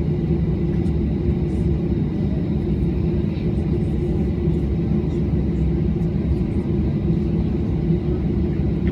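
Airliner engines running, heard as a steady low rumble from inside the cabin, with a faint steady whine above it.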